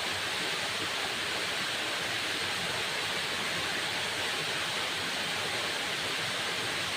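Waterfall: falling water rushing steadily, an even hiss with no changes.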